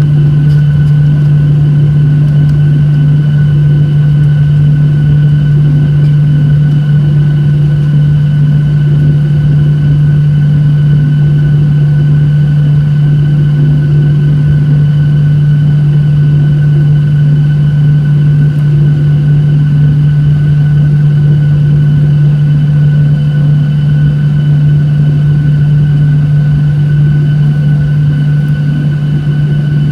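Boeing 737-800 cabin noise in flight: a steady drone of engines and airflow, with a strong low hum and fainter higher steady tones.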